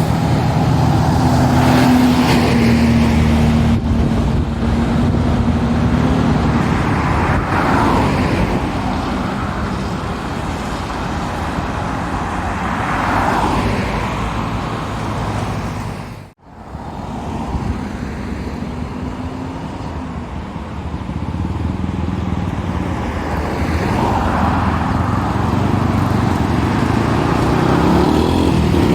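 Road traffic with heavy lorries passing close by, their diesel engines running loud and low, swelling and fading as each goes past; the sound breaks off for an instant about halfway through and resumes with another pass.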